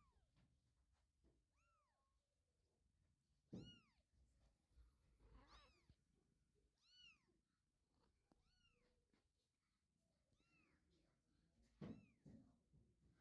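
Three-week-old kittens mewing: about eight short, high-pitched mews, each rising and then falling in pitch, with pauses between them.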